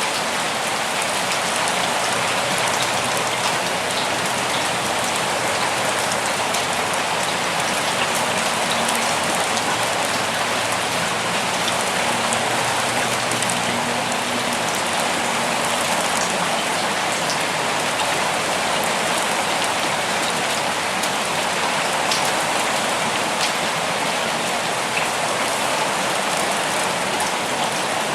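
Steady rain falling in a forest, a dense even hiss of drops with scattered individual drop ticks.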